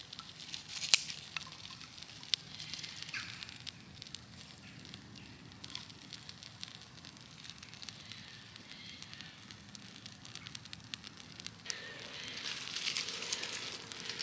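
Small campfire of silver birch bark and fine twigs crackling, with scattered sharp pops, the loudest about a second in. Twigs rustle as they are laid onto the flames near the end.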